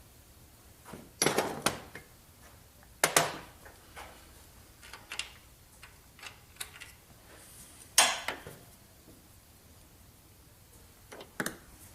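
Metal hand tools and parts clinking and clanking as they are handled and set down, a string of separate sharp clanks with short ringing, several seconds apart.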